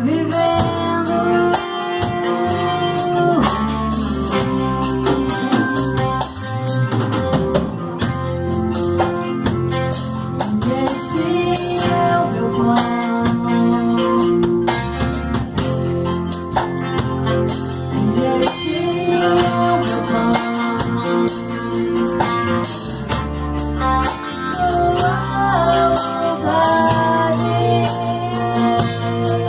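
Contemporary Christian worship song: a full band with drum kit, bass and guitar under a held, gliding melody line.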